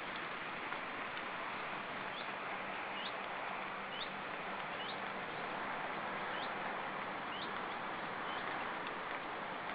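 High, thin bird call notes, each a short downward slur, repeating irregularly about once a second over a steady rushing hiss.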